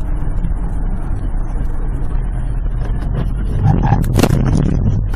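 Steady low rumble of a vehicle on the move, with a cluster of sharp knocks about three to four and a half seconds in.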